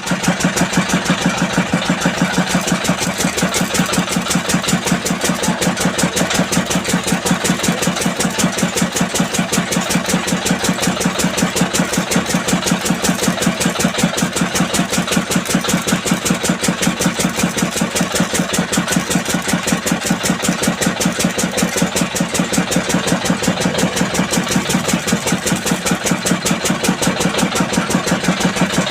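Powertrac Euro 50 tractor's diesel engine running steadily at a constant speed, with an even, rapid beat.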